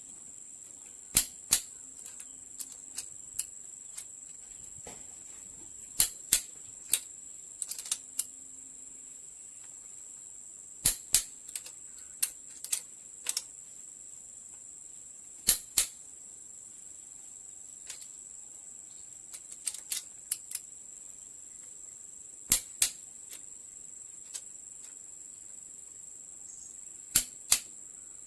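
Sharp metallic clicks from mechanic's hand tools working on the engine, many coming in quick pairs a few tenths of a second apart at irregular intervals. A steady high-pitched hiss runs underneath.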